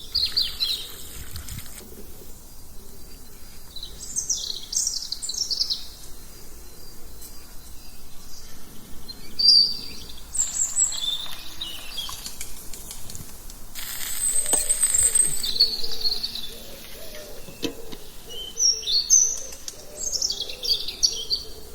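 Small birds chirping and singing in short, high-pitched phrases that come in bursts every few seconds, sometimes overlapping.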